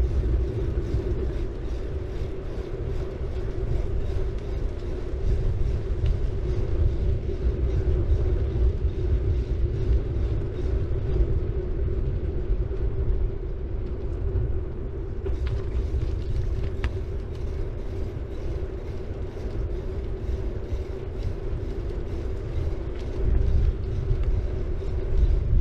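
City bike riding along: tyres rolling on the road surface with heavy wind rumble on the bike-mounted action camera's microphone and a steady hum. A few light clicks come about two-thirds of the way through.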